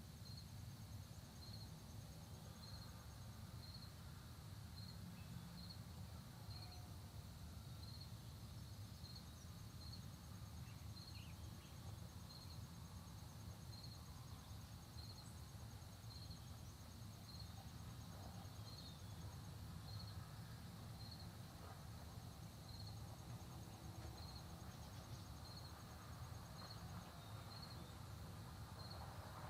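Faint countryside insect chorus: a short high chirp repeating about once a second and a thin, rapid high trill that stops and starts, over a low steady rumble.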